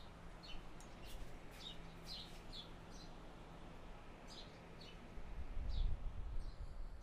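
Faint short bird chirps, repeated a dozen or so times, over quiet room hiss, with a low rumble swelling for about two seconds near the end.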